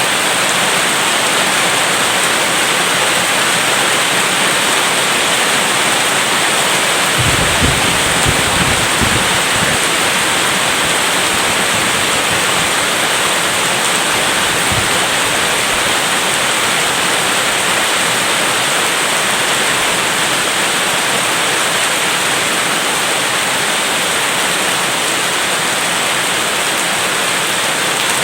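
Steady heavy rain, a dense even hiss, with a brief low rumble of distant thunder about a quarter of the way in and a fainter one near the middle.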